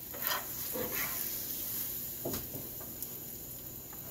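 Paratha sizzling on a hot tawa, with a few short scrapes and taps of a spatula as it is turned and pressed.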